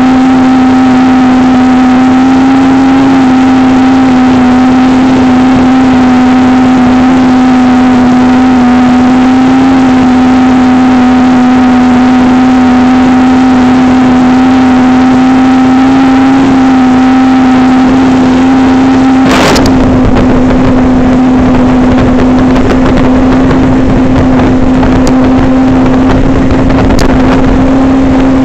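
Motorboat's Volvo Penta engine running at a steady high speed, a constant even-pitched drone. About two-thirds of the way in there is a single sharp knock, after which the sound turns rougher and noisier.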